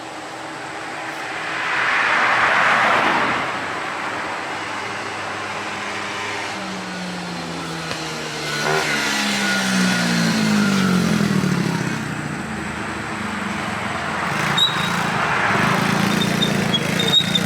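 Taotao 110cc four-stroke pit bike engine being ridden, its pitch climbing and dropping several times as the throttle is worked. The sound swells and fades about two seconds in and again near the end.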